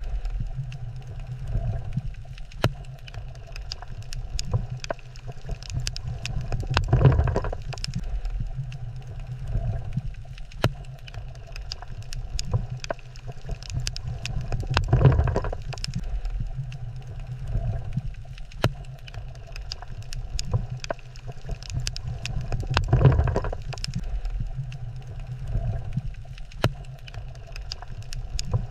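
Underwater coral reef ambience: a steady low rumble of moving water dotted with sharp scattered clicks, swelling louder about every eight seconds.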